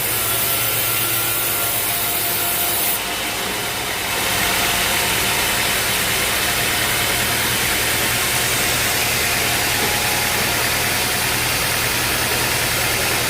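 Band sawmill running as it saws a teak log, a steady motor noise with the hiss of the blade in the wood. The sound dips briefly about three seconds in, then picks up again a little louder.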